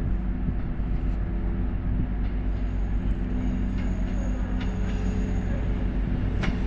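Class 221 Super Voyager diesel-electric unit's underfloor diesel engines running steadily, a low even drone with a humming pitch, as the train pulls out.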